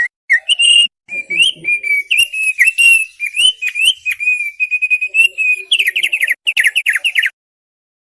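Thick-billed opior (opior paruh tebal, the thick-billed heleia) singing: a fast, varied run of clear whistled notes. Near the end it goes into quick repeated falling notes, then stops abruptly about seven seconds in.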